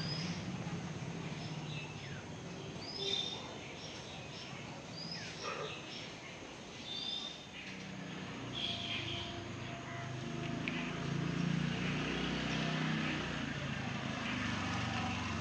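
Birds chirping in short scattered calls over a low steady hum of outdoor background noise, which grows a little louder in the second half.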